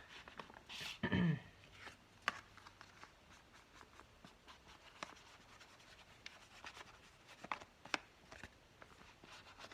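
Light taps, clicks and rubbing of paper and craft supplies being handled on a table, with a brief hum from a person about a second in.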